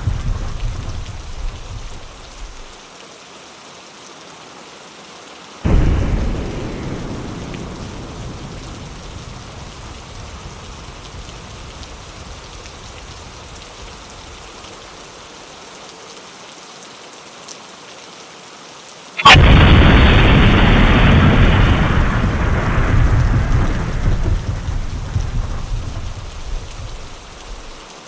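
Steady rain with thunder: a rumble dying away at the start, another clap about six seconds in that fades slowly, and a sharp crack about 19 seconds in, the loudest sound, followed by a long rumble that fades over several seconds.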